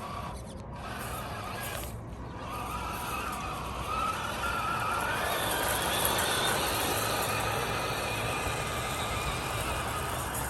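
Small electric motor of a radio-controlled model whining steadily, its pitch wandering slowly up and down, getting louder about four seconds in.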